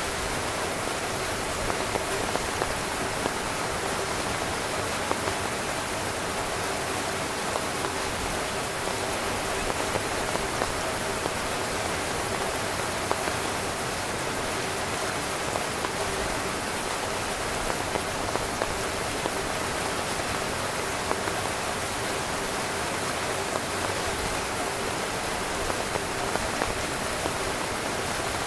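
Heavy rain drumming on a tent's fabric: a steady dense hiss with scattered louder drop hits.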